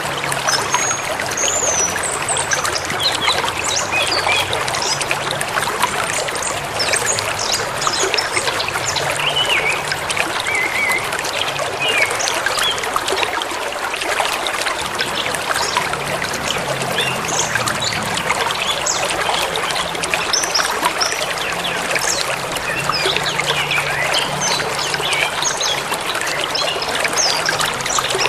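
River water flowing steadily, with birds chirping and calling over it in short, scattered phrases.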